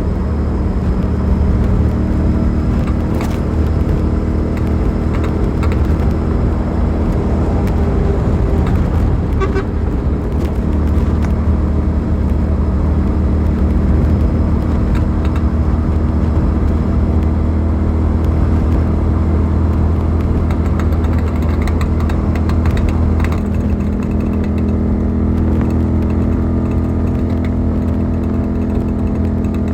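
Suzuki SV650's V-twin engine running at a fairly steady cruising speed, its pitch changing little.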